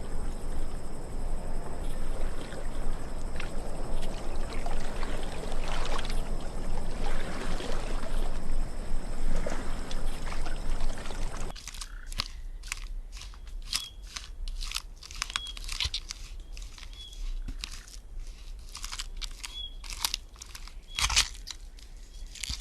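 Wild-animal soundscape: steady insect buzzing over dense rustling noise, then after an abrupt change a sparse series of crunching, crackling clicks with a few short high chirps in between.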